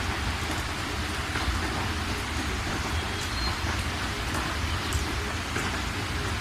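Steady rain falling and pattering on surfaces, with a low rumble underneath and scattered individual drops.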